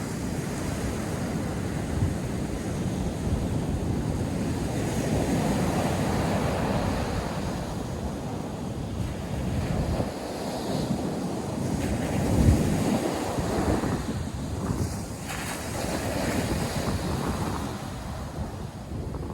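North Sea surf washing in and out, a continuous rush that swells and eases over several seconds. Wind buffets the microphone, hardest about twelve seconds in.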